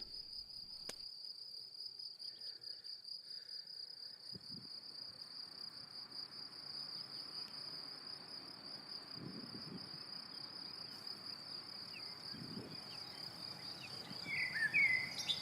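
Field crickets singing: a steady, high-pitched, finely pulsing trill. A few short bird chirps come in near the end.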